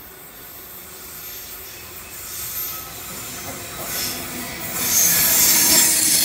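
Sydney Trains Tangara electric suburban train approaching along a curve and running into the platform. Its running noise stays moderate at first, then rises sharply about five seconds in as the front car reaches the camera.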